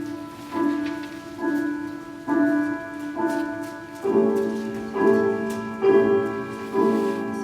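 Piano music: chords struck about once a second in a steady pulse, moving to a louder, lower chord about four seconds in.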